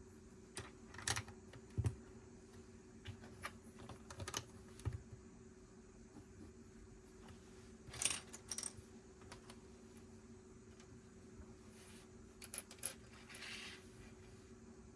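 Plastic Lego pieces clicking and clattering as they are picked up, handled and pressed together, in scattered bursts, with a brief rustle near the end.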